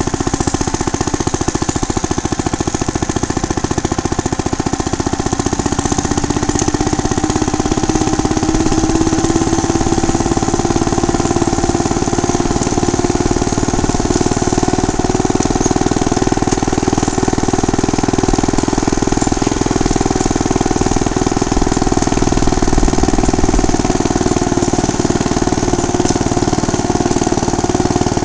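Small gasoline engine of a motorized bicycle running steadily under way, its pitch rising a little about eight seconds in and then holding.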